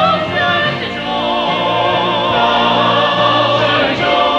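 A church chancel choir singing held notes with vibrato, several voice parts together, moving to new notes about a second in and again near the end.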